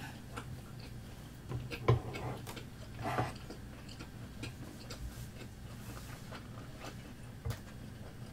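Close-up eating sounds of a person chewing fish cake, with scattered small mouth clicks and a few louder clicks or knocks now and then.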